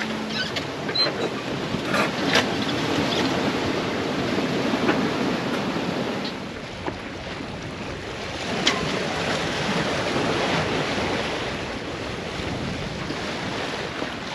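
Sea water washing and splashing along a sailboat's hull as it sails slowly in light wind, with wind on the microphone and a few faint clicks.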